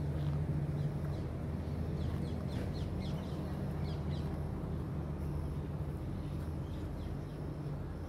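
Small birds chirping over a steady low hum, with a quick run of short, high chirps between about two and four and a half seconds in.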